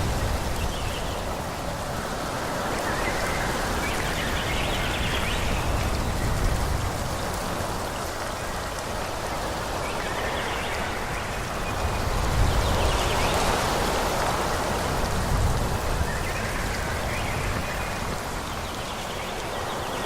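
Wind blowing through forest trees, a steady rushing that swells and eases in slow gusts, with a deep rumble underneath.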